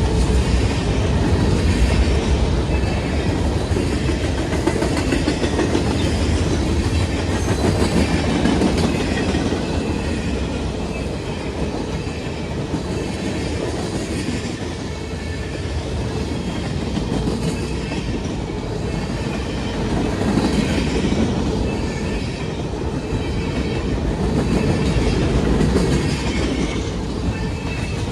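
Railroad cars rolling past, a loud steady rumble of steel wheels on the rails.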